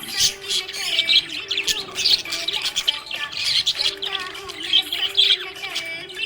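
Budgerigars chirping and warbling in continuous, overlapping chatter, with quick high chirps and an occasional squawk.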